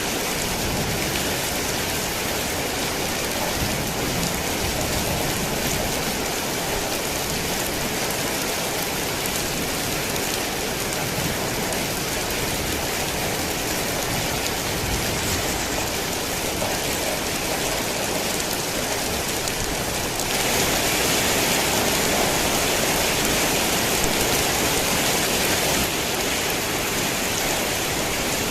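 Heavy rain falling in a steady, dense hiss. About two-thirds of the way through it grows louder and brighter for several seconds, then eases back.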